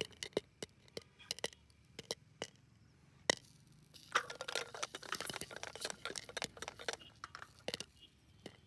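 Popcorn kernels popping inside a covered pot: irregular sharp pops and clinks against the pot, like coins dropped into a piggy bank, thickest about four to five seconds in.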